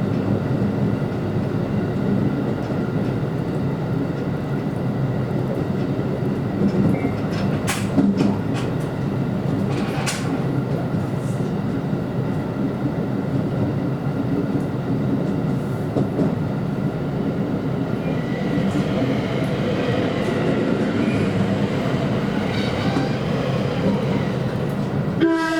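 JR West special rapid electric train running along the track: a steady rumble with a few sharp clicks from the wheels, and a faint high whine joining in the second half. A new tonal sound cuts in at the very end.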